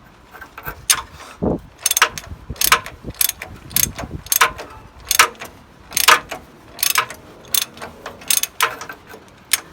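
A hand tool ratcheting: a dozen or so sharp metallic clicking strokes, spaced irregularly about two-thirds of a second apart.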